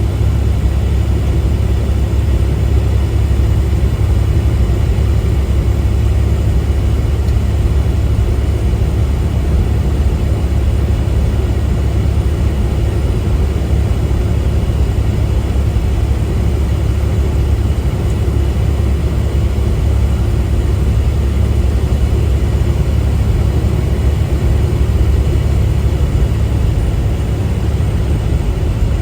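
Steady low drone of a semi truck's engine and road noise, heard from inside the cab while driving.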